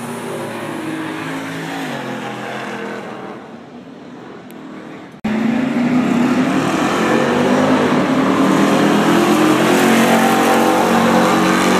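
Car engines revving and accelerating hard, the pitch rising and dropping with the throttle. An abrupt cut about five seconds in, after which the engines are much louder and keep climbing in pitch.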